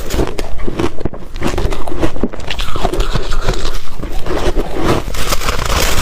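Ice being chewed close to the microphone: a continuous run of loud crunches and sharp cracks as the ice breaks between the teeth.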